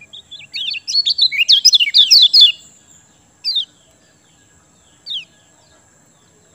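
Kecial kuning songbird singing: a fast, dense run of chirping notes for about two seconds, then single sharp falling 'ciak' calls about every one and a half seconds.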